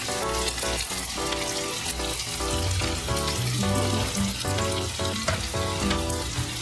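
Chopped onions sizzling as they fry in hot mustard oil with whole spices, a steady crackling hiss. Background music with a low bass line plays under it.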